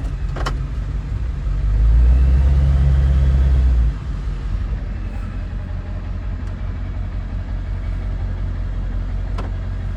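Car engine idling with a steady low hum. From about one and a half to four seconds in it runs noticeably louder and deeper, then settles back.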